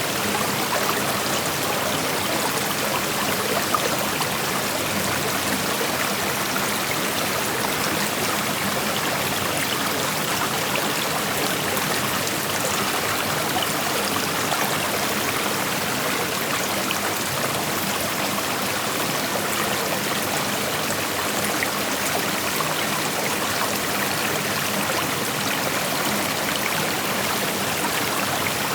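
Creek water flowing over rocks: a steady rushing of shallow running water, with small trickling and splashing in it.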